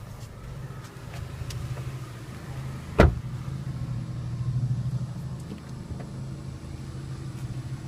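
A steady low hum of a car with one sharp click about three seconds in: the Chevrolet Sonic's trunk latch being popped open.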